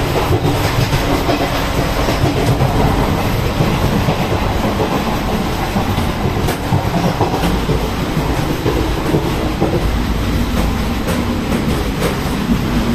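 Passenger train coach running along the track, heard from inside near the door: a loud, steady rumble and rattle of the wheels on the rails.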